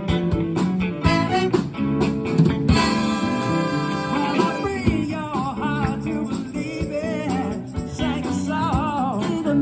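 A band playing music with guitar. A singing voice with vibrato comes in about halfway through.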